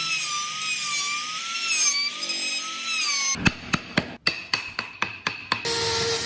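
A power tool whining with a wavering pitch as it works wood. About halfway through it gives way to a quick run of roughly ten sharp hammer strikes, about five a second. A steady tool noise follows near the end.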